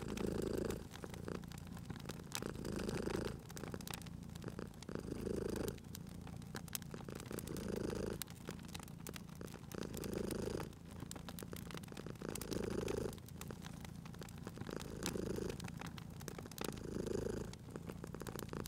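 Domestic cat purring steadily, swelling in regular waves about every two and a half seconds, over the constant small crackles of a wood fire.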